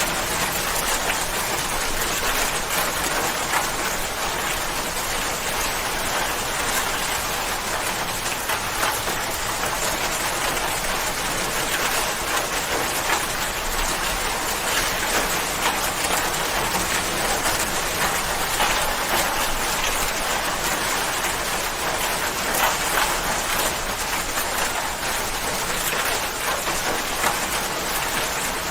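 Steady rain falling, an even dense hiss of many small drops striking a surface.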